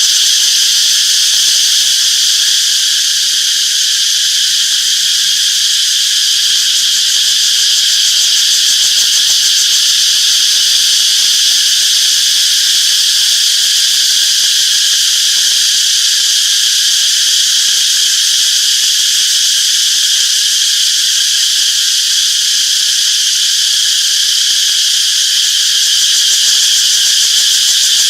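Cicadas droning in a steady, unbroken high-pitched chorus.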